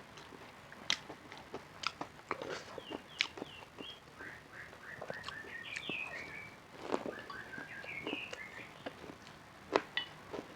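Close-up eating sounds: crunchy bites and chewing, heard as many separate sharp clicks. A run of short high chirps sounds through the middle.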